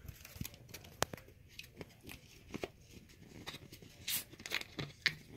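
Plastic drink bottle being handled, with irregular crackles and sharp clicks as its screw cap is twisted off.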